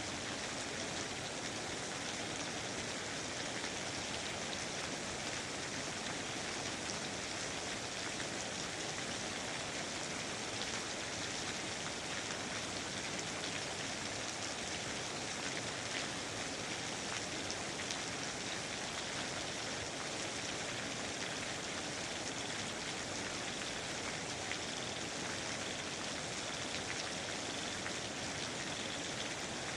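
Steady rain falling, with many fine drops pattering on surfaces.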